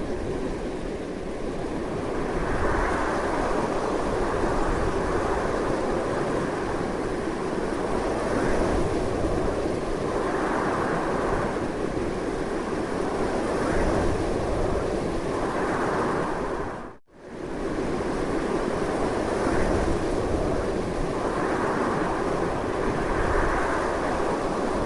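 Strong, continuous wind, a steady rushing with gusts that swell and ease every few seconds. The sound briefly cuts out and comes back about two-thirds of the way through.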